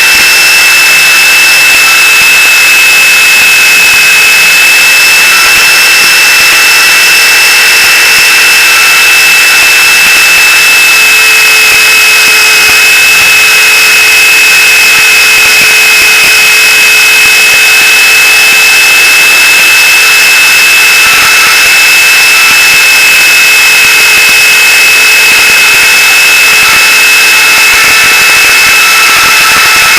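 Gaui Hurricane 425 electric RC helicopter running: a steady, loud, high-pitched motor and gear whine over rotor noise, its pitch wavering slightly.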